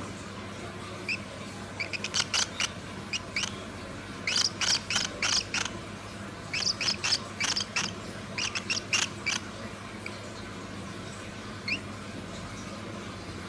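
Small birds chirping: short, sharp high chirps, scattered at first, then coming thick and fast in two busy runs through the middle, then thinning out again.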